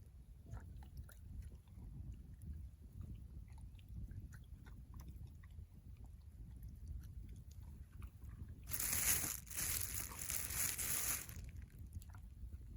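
Campfire crackling with small irregular pops over a low rumble. About nine seconds in, a loud hiss lasting nearly three seconds.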